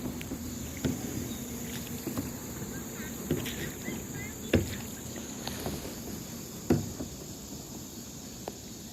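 Kayak paddling on water: a steady wash of water noise with a few sharp knocks, the loudest about four and a half and nearly seven seconds in.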